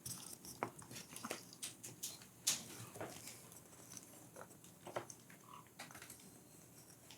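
A parrot picking at and pushing into a castle of light bird-toy blocks: faint, irregular clicks and taps of the small pieces knocking together and being bitten.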